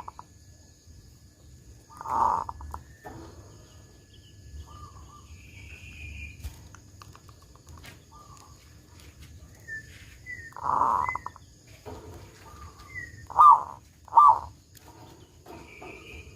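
Zebra dove (perkutut) cooing: a long low coo about 2 s in, another about 11 s in, then two short, loud notes close together near the end. Faint higher chirps of small birds come between the coos.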